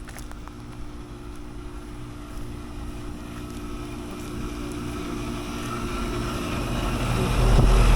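Outdoor air-conditioning condenser unit running: a steady compressor hum with its fan, growing louder, with a heavy low rumble near the end.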